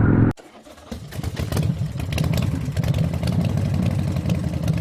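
Motorcycle engine running. An abrupt cut leaves a short dip, then from about a second in the engine is back as a rougher, lower rumble with a clattery ticking.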